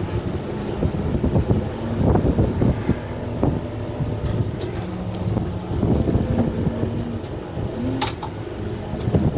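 Kubota M6-141 tractor's diesel engine running under load while working its loader hydraulics. Irregular crunching and a few sharp snaps are heard as the root grapple breaks branches off a tree.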